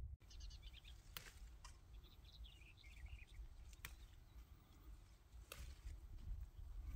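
Faint birdsong: a quick run of high chirps near the start and a falling twittering phrase a couple of seconds in. A few sharp clicks and a low steady rumble lie underneath.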